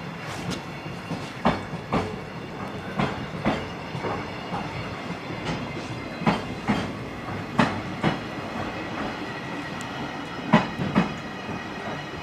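Freight train rolling past, its wheels clacking over rail joints in pairs, a pair every second or two over a steady rolling rumble.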